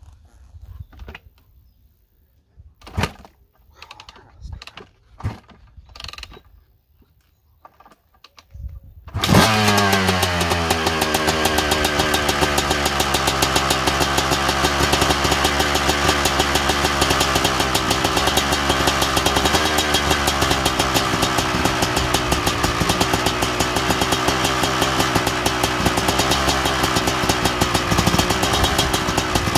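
A 2006 Suzuki RM250's single-cylinder two-stroke engine, breathing through an FMF Gnarly expansion-chamber exhaust, is cold-started on choke after 20 months standing. A few short knocks come first. About nine seconds in, the engine catches and keeps running at a steady, slightly wavering fast idle.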